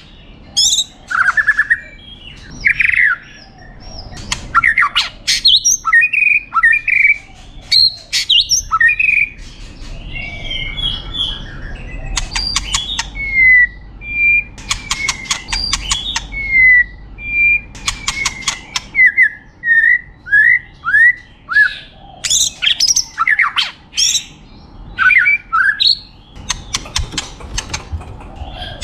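White-rumped shama singing a varied, loud song without pause, mixing rapid rattling trills with a long run of clear, down-slurred whistled notes through the middle.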